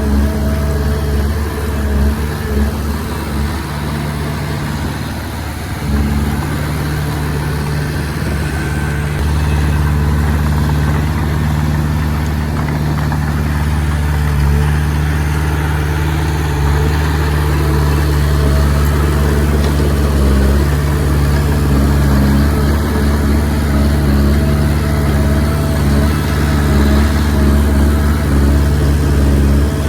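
Komatsu D20P bulldozer's diesel engine running steadily as it works, dipping slightly a few seconds in and picking up again about six seconds in.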